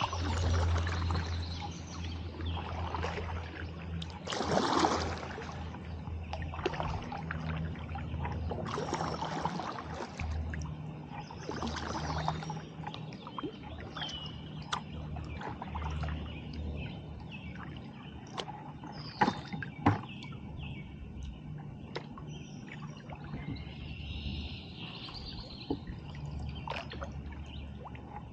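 Kayak paddle strokes: the blade dipping and pulling through the water with splashes and dripping every few seconds, thinning out in the second half. Two sharp knocks come about two-thirds of the way through.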